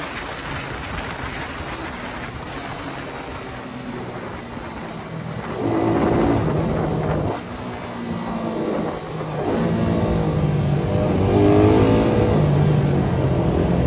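Suzuki Satria FU 150's single-cylinder four-stroke engine through its Thai CBU exhaust, revving. Quieter for about the first five seconds, then louder, with the pitch climbing and dropping as it is worked through the revs.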